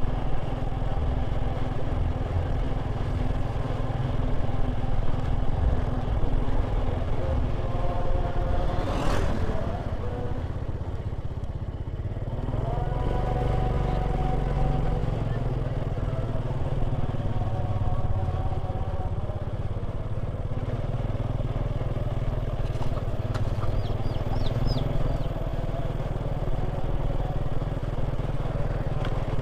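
Motorcycle engine running under a heavy, steady low rumble as it rides. Its pitch rises slowly for a few seconds about a third of the way in.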